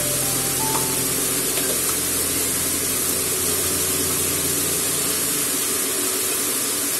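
Meat, garlic and onions sizzling steadily in a hot oiled wok: an even, continuous frying hiss.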